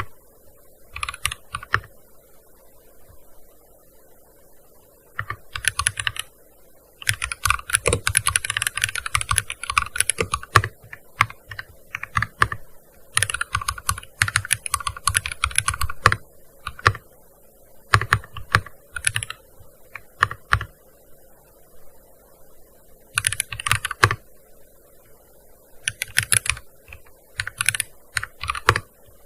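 Typing on a gaming keyboard: quick runs of keystrokes broken by pauses of a second or more, with single key presses in between.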